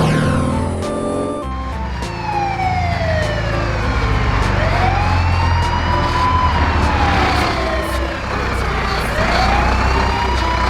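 Animated emergency vehicle's siren wailing, its pitch slowly rising and falling every few seconds, over a steady low rumble.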